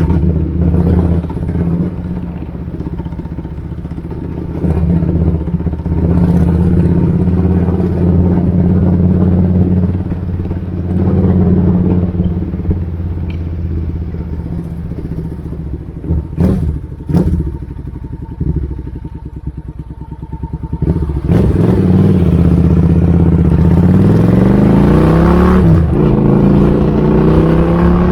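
Suzuki Intruder 800 V-twin engine running through its exhaust, idling steadily, then given two quick throttle blips about two-thirds of the way through. Near the end it is revved up in a slow, rising climb.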